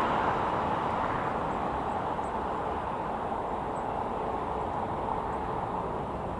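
Jet airliner engine noise, a steady rush that fades slowly as the aircraft moves away.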